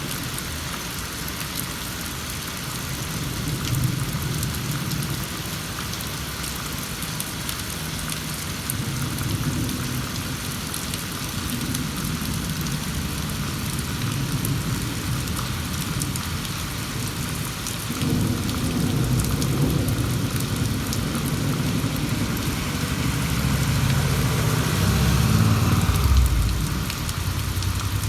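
Steady rain with rolling thunder during an electrical storm. Low rumbles swell and fade several times, and a longer rumble starts about two-thirds of the way in and builds to its loudest near the end.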